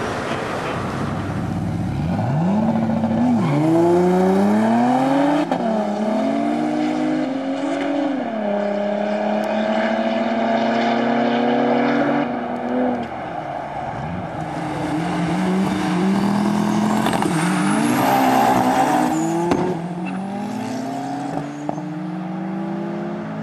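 Cars accelerating hard in a drag race, engines revving up through the gears: the pitch climbs and drops back at each shift, three or four times, and a second run of rising revs and shifts follows about halfway through.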